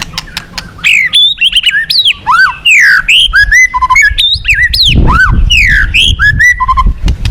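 White-rumped shama (murai batu) singing a loud, fast, varied song of whistled glides, harsh notes and sharp clicks, over the low rush of a fast-flowing river that swells about five seconds in.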